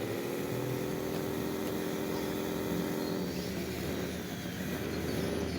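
Small electric motor of a radio-controlled construction model running with a steady humming whine; about three seconds in the pitch sags and wavers as the load or throttle changes.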